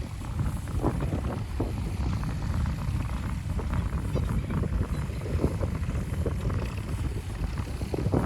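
Wind buffeting the microphone with a steady low rumble, and scattered faint knocks.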